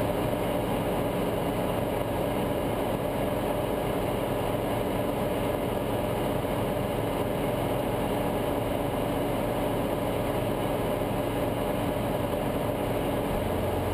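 Guimbal Cabri G2 helicopter's four-cylinder Lycoming piston engine and rotor system running steadily on the ground, heard from inside the cabin.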